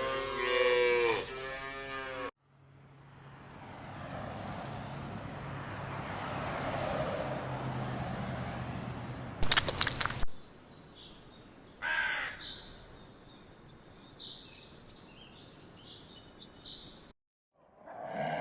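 A bull's lowing moo that ends about two seconds in. Then a steady rushing noise swells and fades, with a quick run of clicks near the end of it. Later a crow caws once, loud and short, followed by a few faint high calls.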